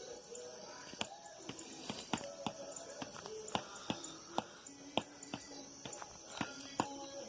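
Wood bonfire crackling, with sharp irregular pops about two a second, over a steady chirring of night insects.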